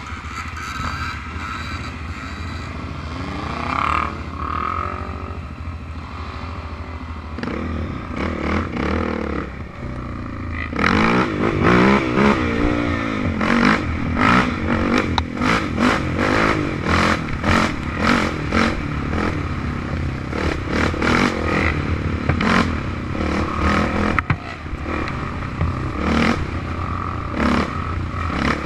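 Off-road vehicle engine running and revving, its pitch rising and falling about a third of the way in, with frequent knocking and rattling through the second half.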